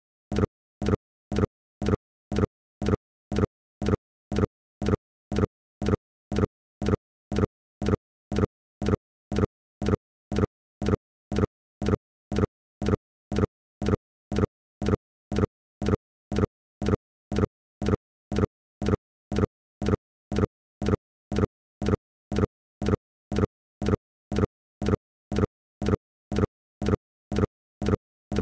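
A short, low pitched pop repeating evenly about two and a half times a second.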